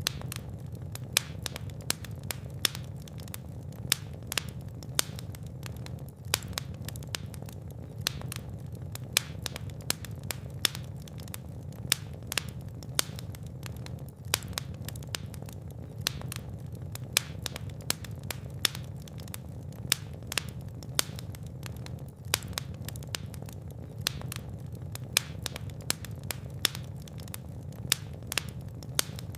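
Wood fire burning in a fireplace: a steady low rumble of flames with frequent sharp pops and crackles, several a second.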